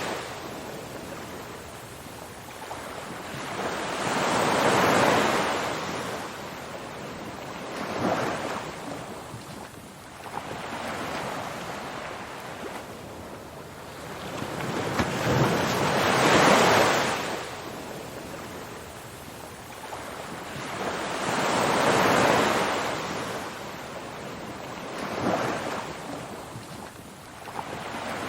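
Ocean waves breaking and washing ashore: a steady rush of surf that swells up and draws back every three to six seconds.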